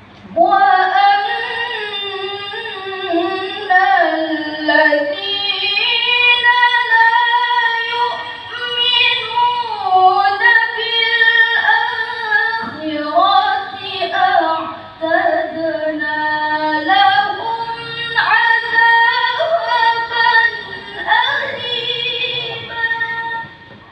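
A girl's voice reciting the Quran in the melodic tilawah style. It is one long, ornamented phrase of high notes that bend and waver, held for over twenty seconds with only brief dips.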